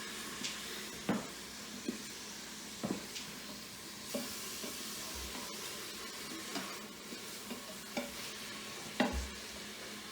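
Chopped onion sizzling in ghee and oil in an Instant Pot on sauté mode, being stirred, with a spoon clicking against the pot about once a second, the loudest knock near the end. The onions are being browned until clear.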